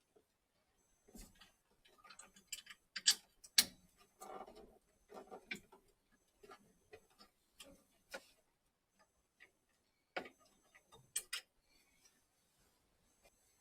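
Irregular clicks and knocks of metal and plastic pipe fittings being handled inside an Ariston boiler as the return pipe is worked into place and clipped in, with sharper knocks about three seconds in and again about ten seconds in.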